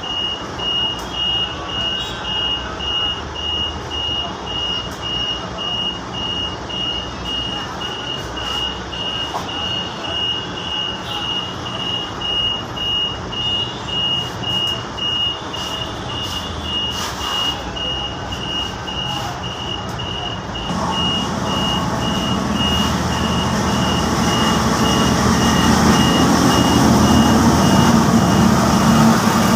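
Railway level-crossing warning alarm beeping steadily, a high tone repeating at an even pace. About two-thirds of the way in, a low rumble grows steadily louder over it as a train approaches the crossing.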